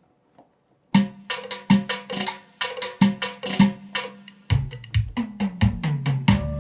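Korg Pa600 arranger keyboard playing an Armenian-style accompaniment pattern: a fast drum and hand-percussion rhythm starts about a second in, and a bass line joins a little past the middle.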